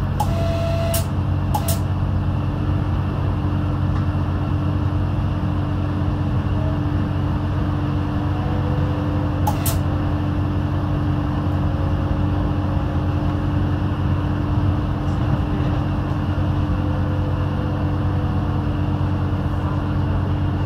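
Pesa 620M diesel railcar under way: a steady engine and running drone with a low held tone. A few short sharp clicks come near the start and again about ten seconds in.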